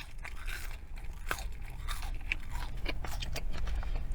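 A person chewing a mouthful of food close to the microphone, with irregular small crunches and wet clicks.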